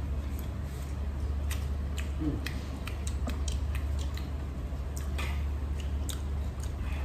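A man chewing and biting into steamed garlic spare ribs, with many short, scattered clicks over a steady low hum.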